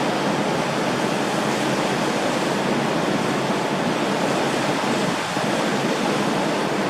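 Steady rushing of water and wind from a fast catamaran ferry under way, an even noise with no tones or knocks.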